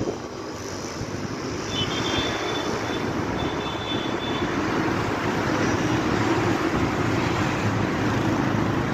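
A motor vehicle's engine running in a steady drone with road noise, growing a little louder after a second or two.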